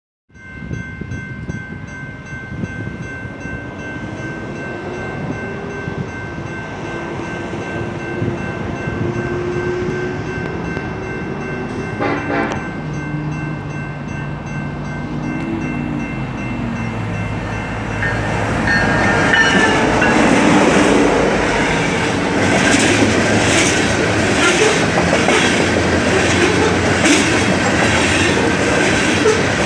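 BNSF coal train passing close by: the locomotives' diesel engines rumble louder as they approach and go by around the middle, then the coal gondolas roll past with a rhythmic clickety-clack of wheels over rail joints, loudest in the last third.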